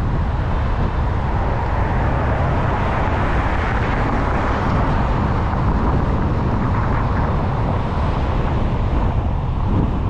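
Steady road noise of a car driving, with a strong low rumble that swells slightly through the middle.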